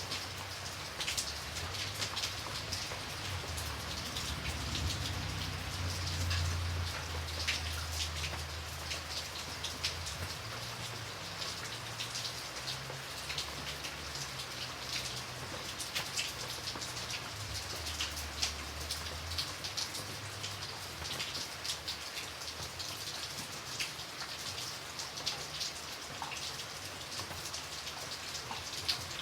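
Steady rain falling on a surface, a constant hiss dotted with many sharp ticks of single drops. A low rumble sits underneath for much of the first two-thirds, then fades out.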